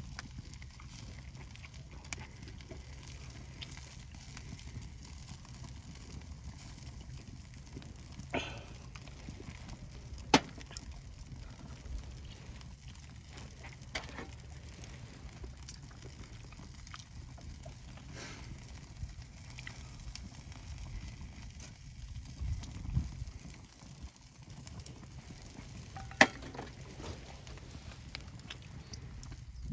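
Wood campfire burning, with a steady low rumble and a few sharp, isolated crackling pops spread several seconds apart.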